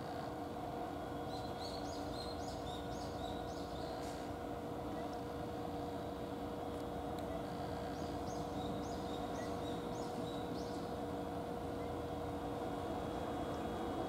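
A small bird chirping in two runs of quick, high notes, about three a second, over a steady outdoor background hum.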